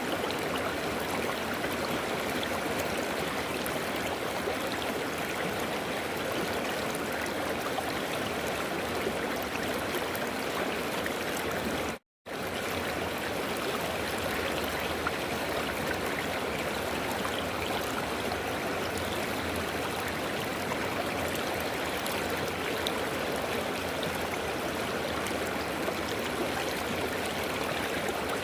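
River water flowing and babbling steadily over rocks. It cuts out to silence for a split second about twelve seconds in, then carries on unchanged.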